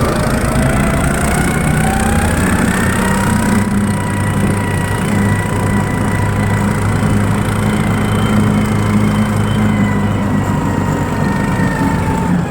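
A Tofalar motorized snow tow's engine running under throttle while riding. It rises in pitch over the first few seconds, holds steady, and eases off slightly near the end.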